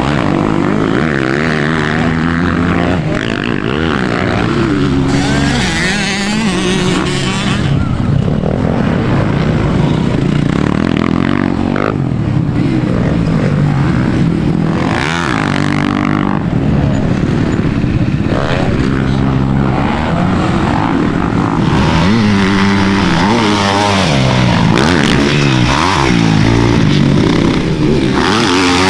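Several dirt bike engines revving and running at once, their pitch rising and falling again and again as the bikes rev, ride and pass.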